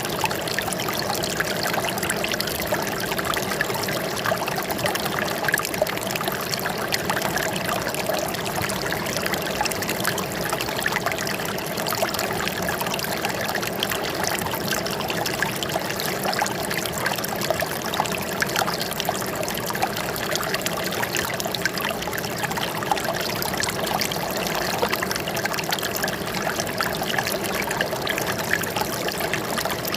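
Running water trickling and splashing steadily, a dense even patter of small splashes with no pause or change.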